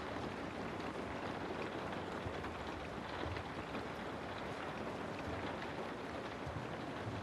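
Steady rain falling on a house, an even patter of many small drops.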